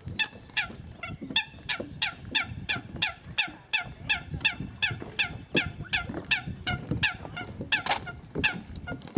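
Eurasian coot calling: a long run of short, sharp, downward-sliding calls repeated evenly, about three a second.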